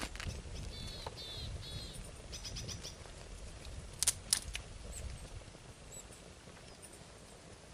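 A small bird chirping: three quick down-slurred chirps, then a short rapid trill. About four seconds in come a few sharp cracks, over a low rumbling background.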